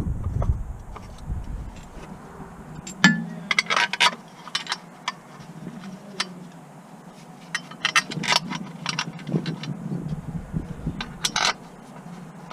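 Scattered metallic clinks, knocks and scrapes of hand tools and car parts being handled, with a sharper knock about three seconds in and clusters of quick clicks later on.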